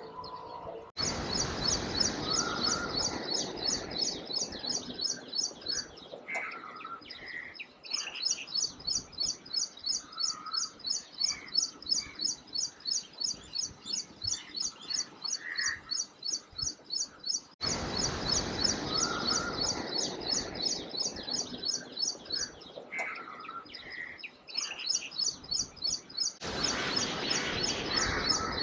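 Birds chirping: one high chirp repeated steadily about three times a second, with scattered lower calls from other birds over a background hiss. The bird track cuts off and starts again abruptly twice.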